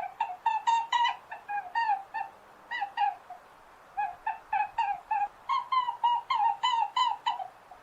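Domestic geese honking: a rapid run of short, clear calls, about three or four a second, each dropping a little in pitch, with a brief pause a little past the middle.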